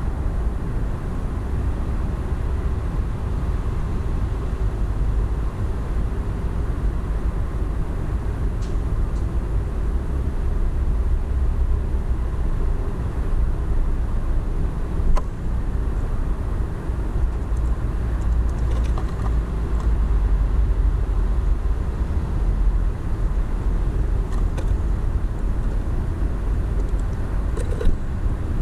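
Steady low rumble of road traffic, with a few faint, brief high sounds scattered through it.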